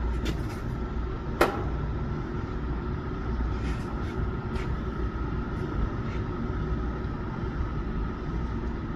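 A steady low machine hum with a thin, high steady whine over it, and one sharp click about a second and a half in.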